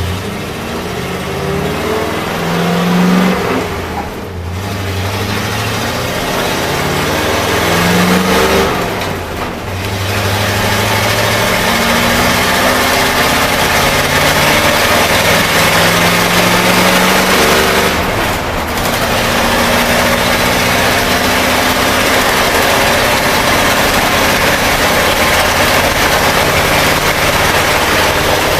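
International Harvester SV304 gasoline V8 pulling a school bus through the gears of its four-speed manual transmission. The engine note climbs, breaks off briefly at three gear changes, then settles into a steady cruise.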